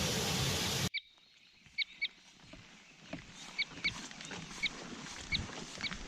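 A loud, steady rushing hiss cuts off suddenly about a second in. Then a bird chirps over and over, about ten short, high chirps at uneven intervals over a faint forest background.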